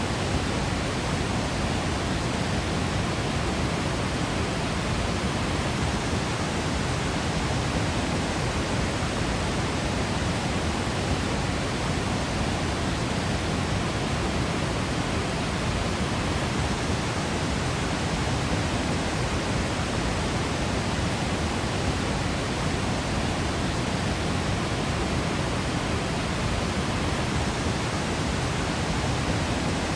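A waterfall's falling water rushing steadily: an even, unbroken hiss that spreads from deep rumble to high hiss without changing.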